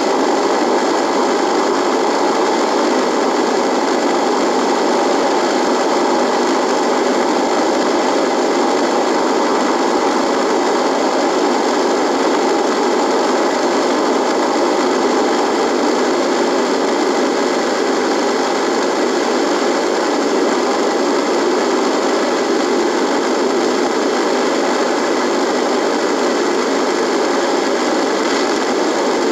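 Radio buzzing with a steady, unbroken noise, strongest in the low middle range.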